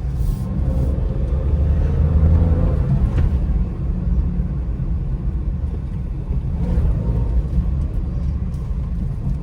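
Toyota Wigo heard from inside the cabin while driving: a steady low rumble of tyre and engine noise. The tyres have a hum that the mechanic suspects may come from a bad wheel bearing.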